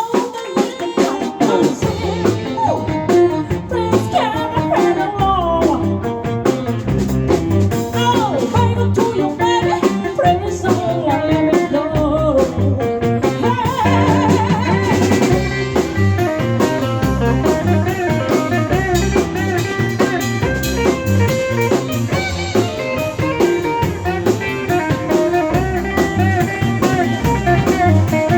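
A live band playing an instrumental blues passage: guitar playing wavering, bent lead lines over a steady drum kit.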